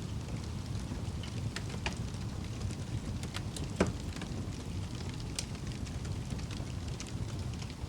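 Wood fire burning in a fireplace: a steady low rumble with scattered crackles and pops, one sharper pop about four seconds in.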